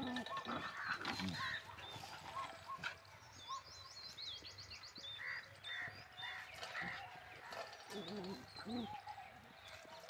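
Small birds chirping, with a rapid high trill a few seconds in, and a few short low animal calls near the end.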